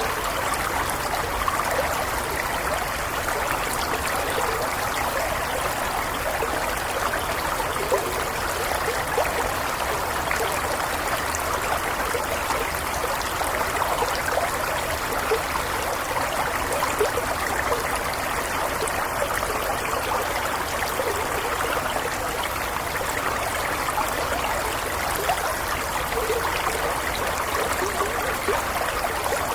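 A small stream flowing steadily over stones, a continuous burble with little trickles and splashes flickering through it.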